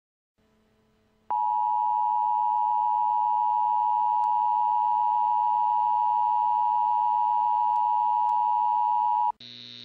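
Emergency Alert System attention signal: a loud, steady alert tone near 1 kHz that starts about a second in, holds for about eight seconds and cuts off abruptly, leaving a low electrical hum.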